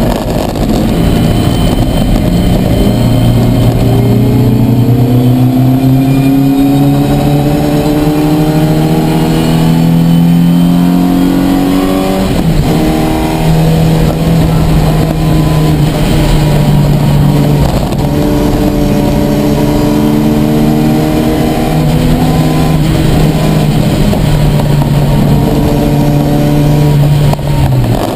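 Ford Fiesta race car's engine heard from inside the cockpit, running hard under load. Its pitch climbs steadily for about twelve seconds, drops sharply, then rises and falls again a few times as the revs change through gear changes and lifts.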